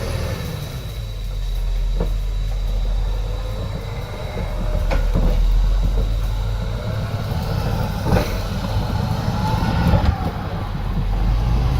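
Heavy diesel earthmoving machine running steadily, with four sharp metallic clanks spread through the sound.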